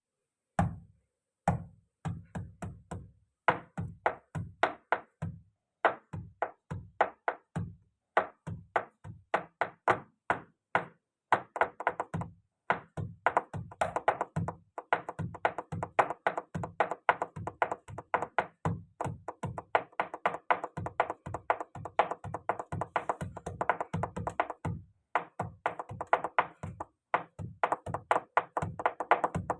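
Rhythmic knocking and tapping on a hard surface, played in beat-like groups like improvised drumming, sparse at first and getting much faster and denser about halfway through.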